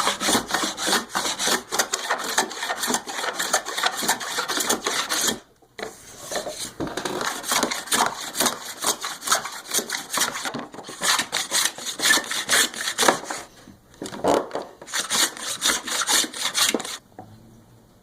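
Wood being worked by hand with an abrasive, in quick back-and-forth rubbing strokes. The strokes come in runs broken by short pauses about five, eleven and fourteen seconds in, and they stop near the end.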